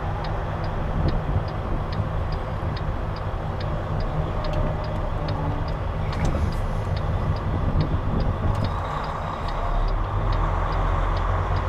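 Semi truck's diesel engine idling, heard from inside the cab, with a light ticking about three times a second over it.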